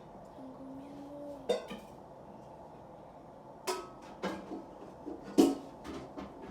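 Scattered sharp clicks and knocks of things being handled, the loudest about five and a half seconds in, with a short low hum about half a second in.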